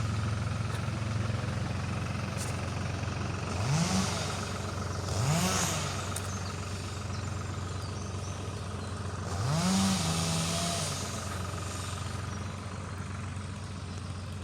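Engine of a log-hauling vehicle running steadily at low revs, revved up and back down briefly three times, about four, five and a half and ten seconds in, the last rev held about a second.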